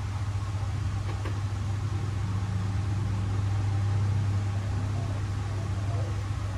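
Steady low hum with a single click just after a second in; faint spotted dove coos begin near the end.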